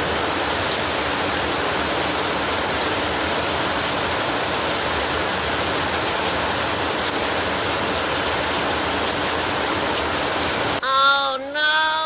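A steady, even rushing hiss that cuts off suddenly near the end. It gives way to short, high-pitched, voice-like sliding tones.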